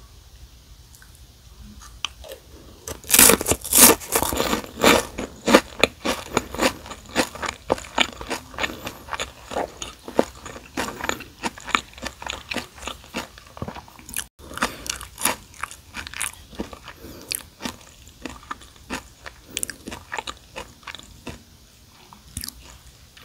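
Close-miked crunching of a fried seaweed chip (gim-bugak) eaten with a spoonful of kimchi fried rice. The loudest crunches come about three seconds in, then give way to steady, softer chewing clicks.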